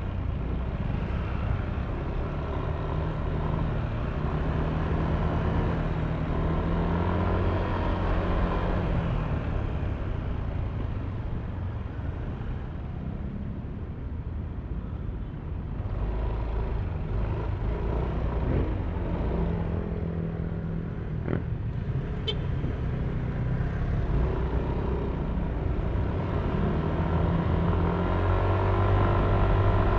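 Yamaha Aerox V3 scooter's 155 cc single-cylinder engine and belt drive running on the move, with road and wind noise. The engine eases off for a few seconds midway, then picks up again and pulls harder near the end. A short click sounds about two-thirds of the way in.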